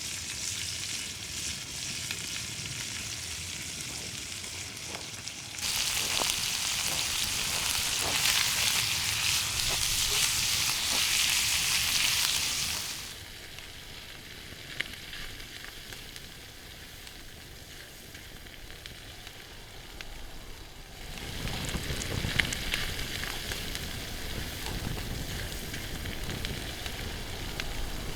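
Food sizzling as it fries in a pan, with a few light clicks. The sizzle jumps louder about six seconds in and drops back about seven seconds later.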